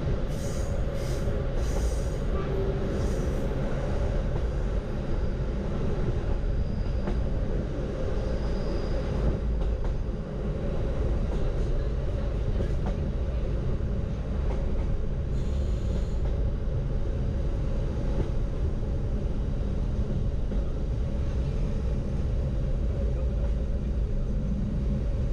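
Diesel-hauled sightseeing train running steadily along the line, heard from aboard an open-windowed observation car: a continuous rumble of wheels on rail, with a few brief light clicks near the start and again about midway.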